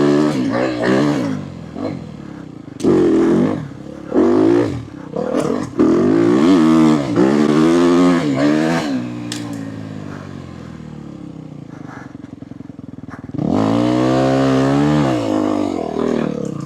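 Dirt bike engine revving hard in repeated surges, its pitch climbing and falling as the throttle is worked. It eases to a lower, steadier note for a few seconds, then holds a long high rev near the end before dropping off. A few sharp clicks sound in the first few seconds.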